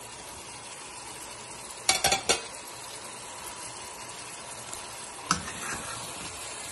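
Food sizzling in a hot steel pot as sautéed vegetables are scraped off a plate into it and stirred with a spatula. There is a quick cluster of three or four clattering knocks of spatula and plate against the pot about two seconds in, and one more knock a little after five seconds.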